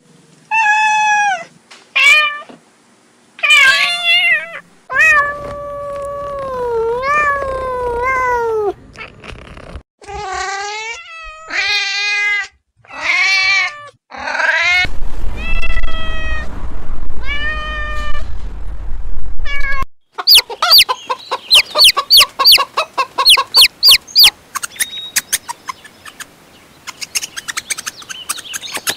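Cats meowing: a string of separate drawn-out meows that bend up and down in pitch. From about two-thirds of the way in, a quick run of short, high mews comes about four a second.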